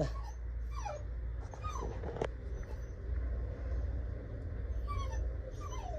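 A dog whimpering in short, falling whines, four faint cries spread across the few seconds, with one sharp click about two seconds in.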